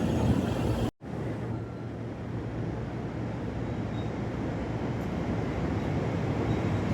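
Steady rumbling noise of a train at a station. The sound cuts out abruptly for a split second about a second in, then resumes.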